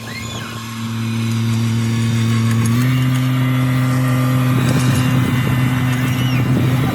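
Tractor engine running steadily under load, its pitch stepping up a little about three seconds in as it gets louder.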